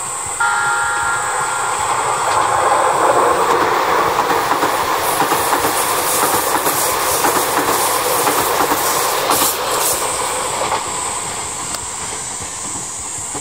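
Tobu N100 series Spacia X electric train passing close by. It starts with a sudden rise and a few steady tones, builds to loud running noise with clickety-clack over the rail joints, then eases off after about ten seconds.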